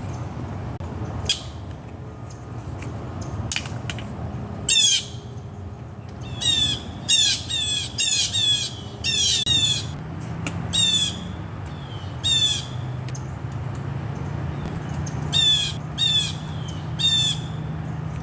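Squirrel giving harsh, squawking alarm cries: a few single calls, then a quick run of about six, then three more near the end. A steady low rumble runs underneath.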